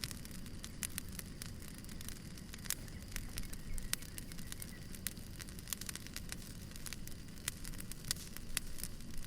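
Wood fire burning, with a steady low rumble and irregular sharp crackles and pops from the burning firewood.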